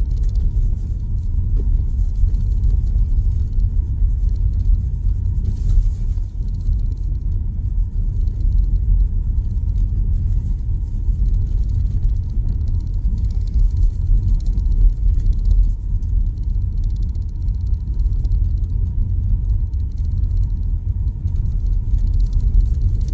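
Steady low road rumble from a 2026 Tesla Model Y's tyres and suspension running over a snow-covered, uneven road, heard from inside the cabin.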